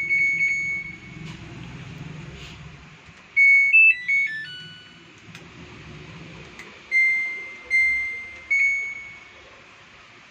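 Samsung top-load washing machine's control panel beeping: a drawn-out beep at the start, a short stepped chime tune about three and a half seconds in, then three separate beeps near the end as its buttons are pressed.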